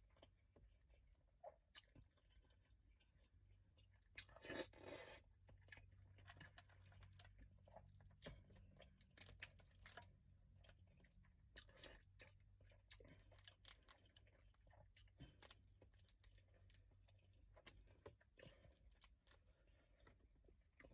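Quiet close-up eating sounds of a crawfish boil being eaten: chewing, with scattered crunches and clicks of shells, and a louder crunching burst about four seconds in.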